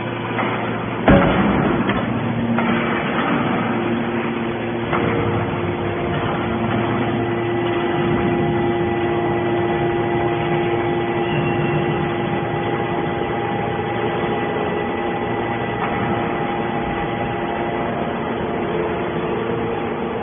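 Y81 hydraulic scrap metal baler running: a steady mechanical hum with a held whine, and one loud metal clang about a second in.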